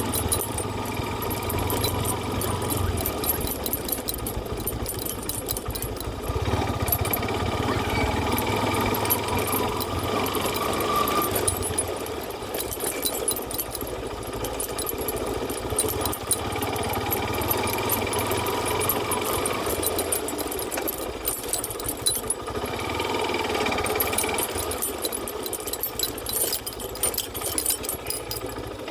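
An engine running with a fast, even mechanical clatter.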